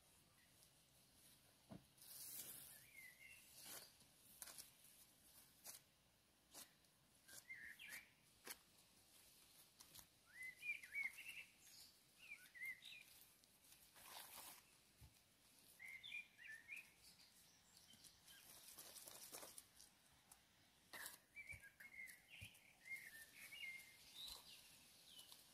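Faint outdoor ambience with small birds giving short chirps every few seconds, and a few soft clicks.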